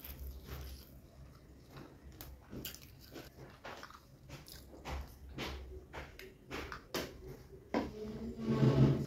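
A person chewing mouthfuls of chicken biryani, with wet smacking and clicking mouth sounds. Near the end comes a louder, short hum through closed lips.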